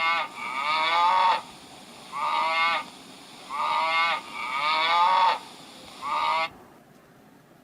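A pig squealing in a series of about six loud, high-pitched calls, each half a second to a second long.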